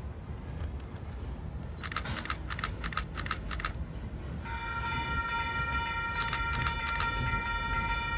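Train rolling by with a steady low rumble, its wheels clicking over rail joints in quick groups of clicks. About halfway in, a steady high tone of several notes sets in and holds.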